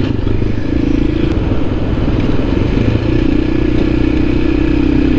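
Motorcycle engine running at a steady speed while riding, with rushing wind noise over it.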